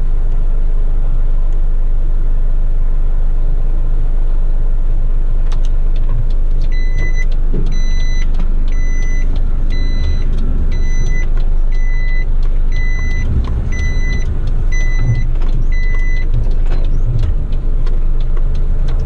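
Garbage truck's diesel engine running with a low rumble, and a few seconds in, a reversing alarm beeps about once a second, around ten times, with knocks and rattles in between, as happens while backing up to tip a load.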